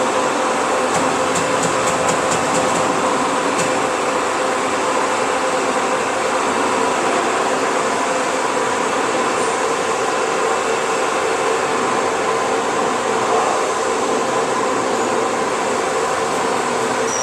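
Industrial band saw machine running with a steady mechanical hum and whir, with a few light clicks about one to three seconds in.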